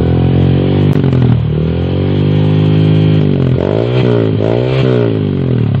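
Honda Verza 150's single-cylinder engine revving through a newly fitted Akrapovic-style aftermarket exhaust: one long rev, then several quick throttle blips in the second half. The exhaust note is fairly mellow, not too loud when revved.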